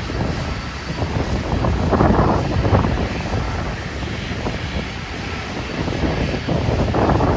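Wind buffeting the microphone in irregular gusts over the steady rushing noise of a jet airliner's engines.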